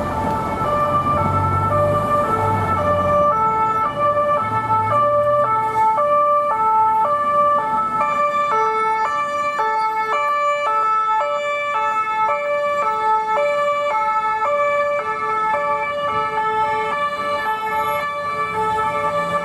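French police two-tone sirens, more than one sounding at once and out of step, each alternating between a high and a low note. A vehicle's low engine rumble is heard under them for the first few seconds.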